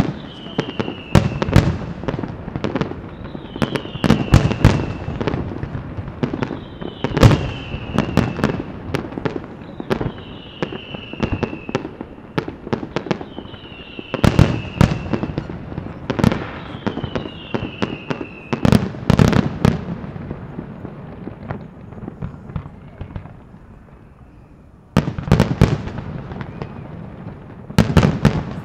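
Fireworks display: shells bursting with repeated bangs and crackle. A falling whistle recurs about every two seconds in the first half, and the bangs thin out into a quieter lull shortly before resuming near the end.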